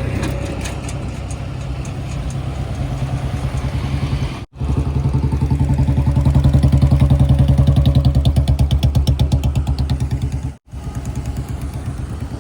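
Heavy diesel engine running with a fast, even throb, loudest in the middle. The sound cuts out abruptly twice.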